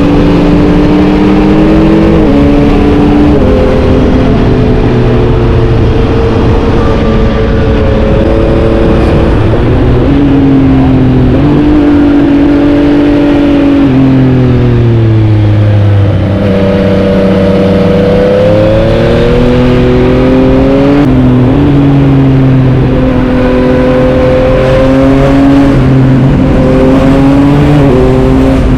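A Yamaha MT-09's 890 cc inline-three engine heard from on board while riding, its pitch rising through the gears and dropping at the shifts. About halfway through, the revs fall away and then climb again as the bike slows and accelerates back out.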